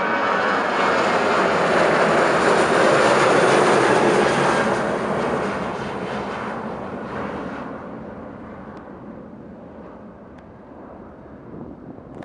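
Boeing 737-800's CFM56-7B turbofan engines at takeoff power. The roar is loudest about three to four seconds in, then fades steadily as the jet climbs away.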